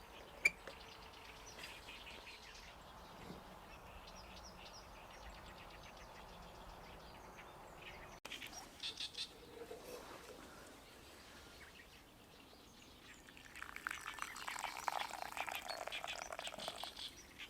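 Birds chirping in woodland, with a sharp click about half a second in. Near the end come a few seconds of dense crackling noise, the loudest sound here.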